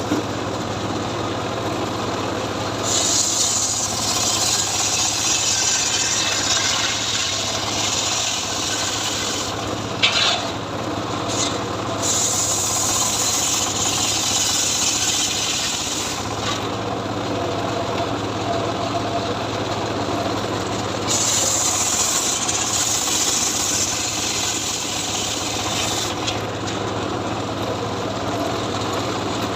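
Homemade engine-driven saw (gergaji srekel) running and ripping teak wood: a steady engine hum under a harsh cutting rasp. The rasp grows heavier about three seconds in, eases twice, around ten and sixteen seconds, and comes back strongly past the twenty-second mark.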